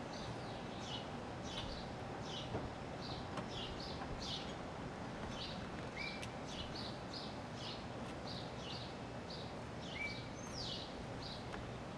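Small birds chirping over and over, short quick downward chirps a few to the second with an occasional brief rising note, over a steady outdoor background hiss.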